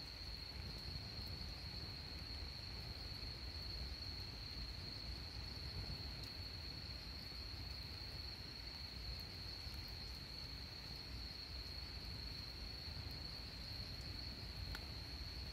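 Night insects keep up a continuous high-pitched trill over a low, steady background noise, with a few faint ticks.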